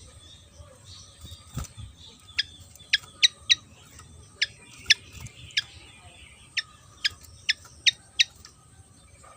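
Fantail (sikatan kipas) singing actively: a string of about a dozen short, sharp chirps, each sliding quickly down in pitch, spaced irregularly. A faint steady hum runs underneath, and there is one dull thump about a second and a half in.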